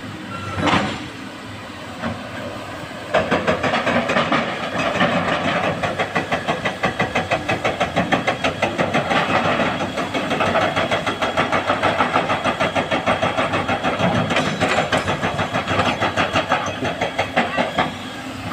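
Heavy diesel earthmoving machinery working as rock is loaded into a dump truck, with a short loud clatter just under a second in. From about three seconds the engines run hard with a loud, fast pulsing throb.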